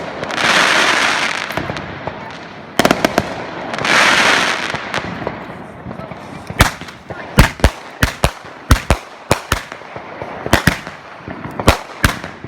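Consumer fireworks going off: two loud hissing rushes, each about a second long, in the first five seconds. They are followed by a rapid, irregular string of sharp bangs, more than a dozen, through the rest.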